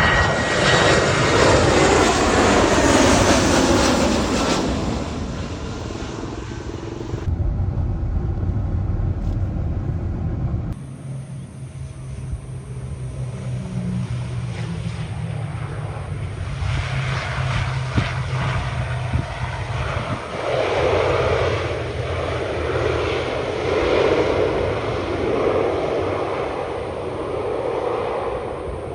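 Aircraft engine noise: a loud pass in the first few seconds with the pitch falling as it goes by. After two abrupt changes it becomes a steadier, quieter engine rumble with a low hum.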